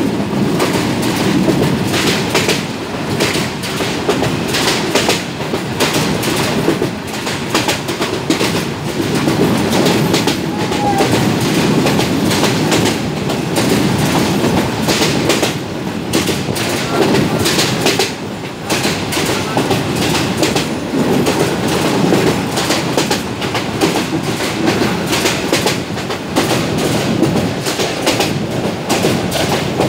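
Commuter train running at speed, heard from aboard: a steady rumble and rush with the repeated clickety-clack of the wheels over the rail joints.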